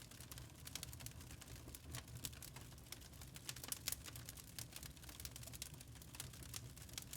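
Wood log fire crackling in a fireplace: many small, irregular snaps and pops, a few louder ones near the middle, over a low steady rumble.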